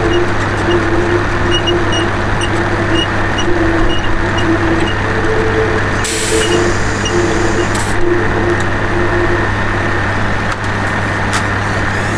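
A vehicle engine running steadily, with a hiss of about two seconds roughly six seconds in.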